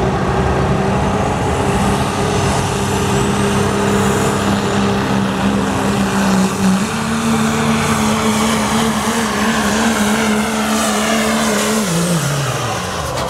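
Turbocharged diesel pickup engine held at high revs under full load, pulling a weight-transfer sled. Its pitch holds steady, steps up about two-thirds of the way through, then drops away near the end as the truck bogs down and the run ends.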